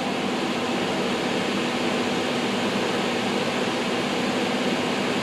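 Two all-metal solder fume extractor fans running steadily with their filters installed: an even rush of air with a steady motor hum. The sound is strained, which the owner takes as a sign that the fan's bearing needs oil.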